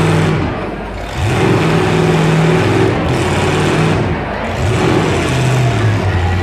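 Demolition derby car engines running loud, revving up and down, with a brief dip about half a second in.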